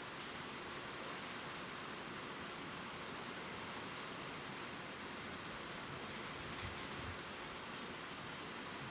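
Steady gentle rain ticking on leaves, with a few single drops standing out now and then.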